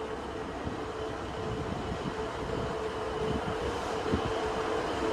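Class 66 diesel freight locomotive approaching, its EMD two-stroke V12 engine running with a steady hum over a low rumble, growing gradually louder.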